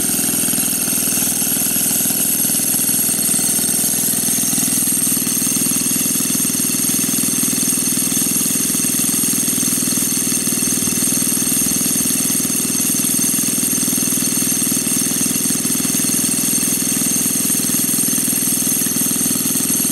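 Small Honda 50 cc four-stroke water-pump engine of a custom board-track-style motorbike running steadily at an even pitch, with no revving up or down.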